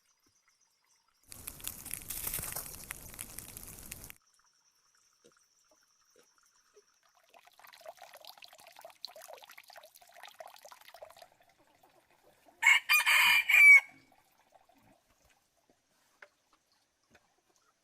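A brief burst of rushing, water-like noise that cuts off suddenly, then faint scratching. About 13 seconds in comes a loud animal call in several quick pulses, lasting about a second.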